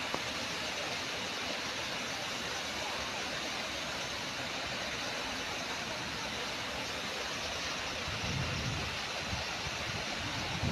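Waterfall rushing with a steady, even roar of falling water, with a couple of brief low rumbles near the end.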